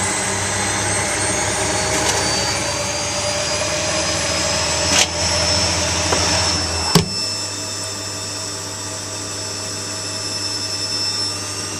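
Zanussi washing machine drum spinning, a loud, fan-like whoosh with a motor whine rising slowly in pitch as the spin builds. A sharp click comes about five seconds in and another about seven seconds in, after which the low hum changes.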